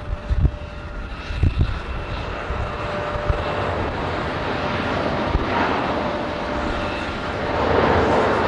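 Jet airliner's engines: a steady whine of several held tones over a rush of engine noise that grows louder toward the end as the plane draws nearer. A few low thumps sound in the first two seconds.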